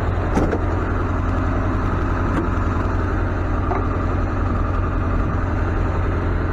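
Tow truck engine idling steadily with a deep, even hum, with a couple of light clicks about half a second and two and a half seconds in.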